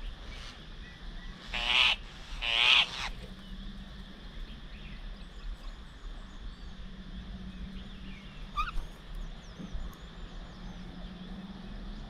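Two loud calls from a bird, one after the other about two and three seconds in, followed later by a few faint chirps and twitters.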